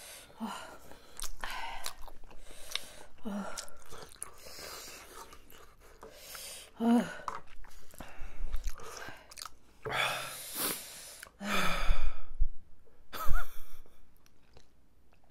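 Close-miked chewing of tteokbokki, chewy rice cakes in spicy sauce: irregular wet mouth noises and bites, with a louder spell of eating noises about ten to twelve seconds in.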